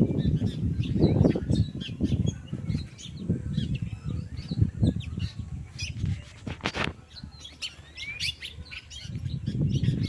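A flock of birds in a tree, chirping and calling in many short notes, over loud low rushes of noise that swell and fade.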